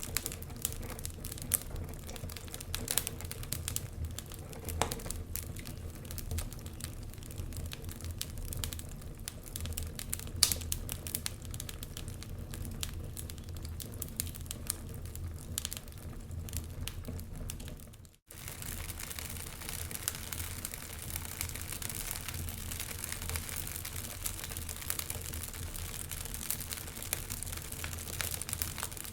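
Wood fire crackling and popping in a fireplace, over a low steady rumble. About 18 s in the sound drops out for a moment and comes back as a steadier hiss with fewer pops.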